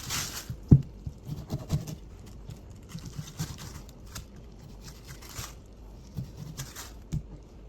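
Kitchen handling noises: scattered light knocks and clatter, the sharpest about a second in, with a few short rustles between.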